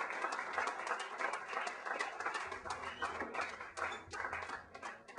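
Audience clapping and cheering in a small room, dying down near the end.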